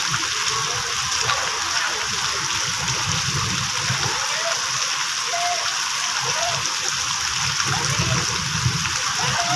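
Steady rain falling, an even hiss of water that keeps a constant level throughout.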